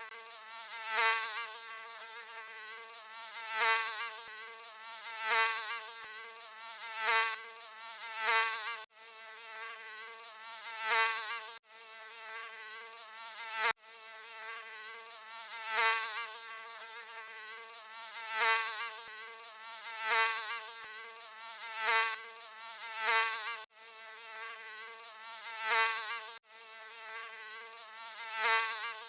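Mosquito buzzing: a steady high-pitched whine that swells loud and fades back about every two seconds, with a few abrupt momentary cuts where the recording is looped.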